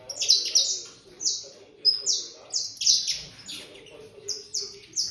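A young saffron finch (canário-da-terra) singing: a run of loud, sharp, high notes, each falling in pitch, two or three a second.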